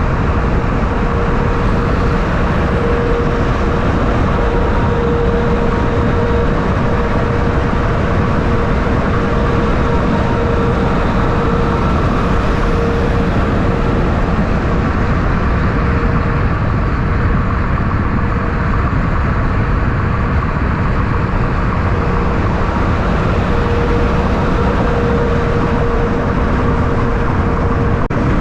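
Loud, steady vehicle noise with a constant hum through it, holding level throughout with no trucks passing by or engine brakes firing.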